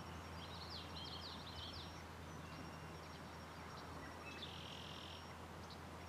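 Faint birdsong: a quick run of short high chirps about a second in and a buzzy trill a little before the end, over a steady low background hum.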